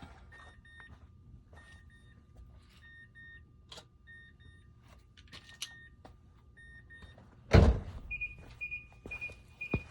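Engine off; a car's electronic warning chime beeping in short paired tones with small clicks between. A heavy thud comes about seven and a half seconds in, followed by a quicker run of higher-pitched beeps.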